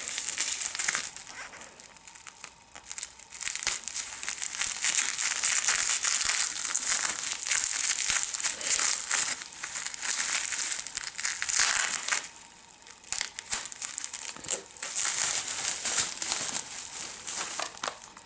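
Packaging crinkling and rustling in irregular bursts as it is handled and pulled open to get at the items inside, with a couple of brief lulls.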